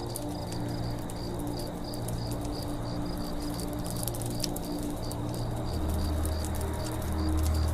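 Campfire crackling with scattered sharp pops over a low steady rumble, while an insect chirps steadily, about three to four times a second.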